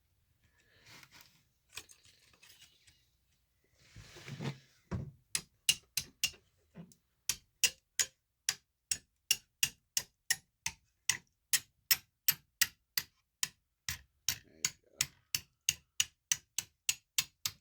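Small hammer tapping steadily on a rock to split it open along its crack, about three sharp, slightly ringing strikes a second, starting about five seconds in after some handling noise.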